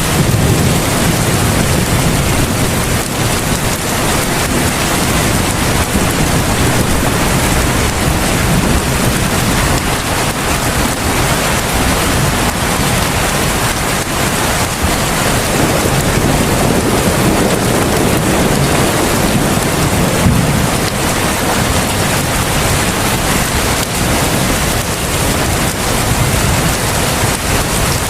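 Heavy rain pouring steadily, a dense even hiss, with a low rumble swelling and fading several times underneath.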